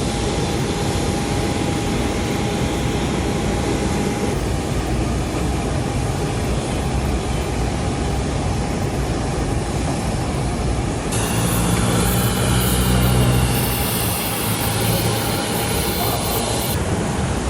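Jet airliner noise: a steady rush of engine and airflow noise with a faint constant tone. About eleven seconds in it turns louder and fuller, with low engine tones, then settles back near the end.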